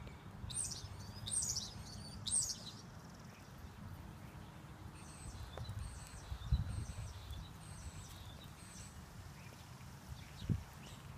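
Birds chirping: three loud sweeping calls in the first few seconds, then a run of fainter short, high chirps, over a steady low outdoor rumble. Two dull thumps stand out, about six and a half and ten and a half seconds in.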